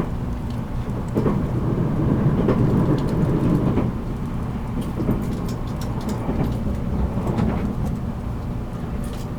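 Running noise of a 783 series limited express electric train heard inside its motor car: a steady rumble of wheels on rail and running gear, swelling louder about a second in and easing off again around four seconds, with scattered light clicks.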